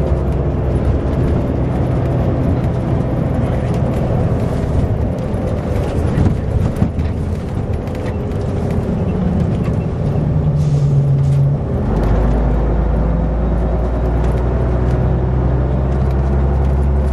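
Leyland Olympian coach's rear-mounted Leyland TL11 diesel engine running under way, its note rising about ten seconds in, then settling into a deeper, heavier drone from about twelve seconds.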